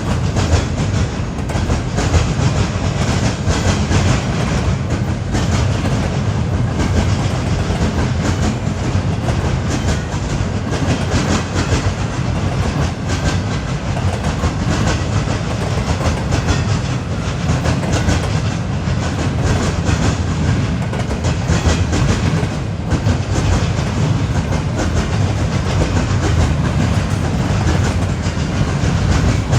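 Freight train cars rolling past, steel wheels clacking over rail joints in a steady, continuous rush of rail noise.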